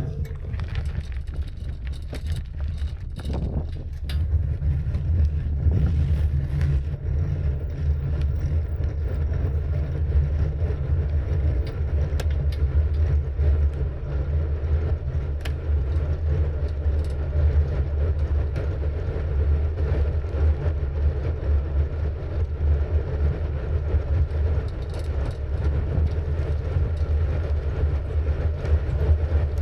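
Steady, unbroken low rumble of wind on the microphone mixed with road noise while riding a bicycle.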